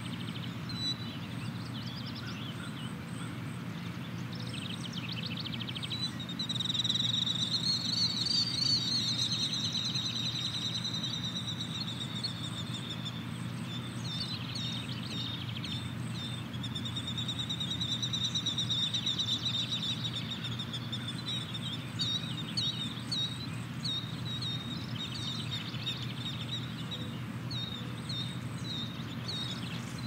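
Songbirds singing: many short high chirps, and a long, loud trilling song that starts about a fifth of the way in and comes again near the middle. Under it runs a steady low hum.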